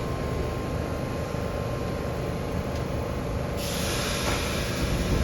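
New York City subway train rumbling in the station. About three and a half seconds in, a loud hiss of air starts suddenly and holds.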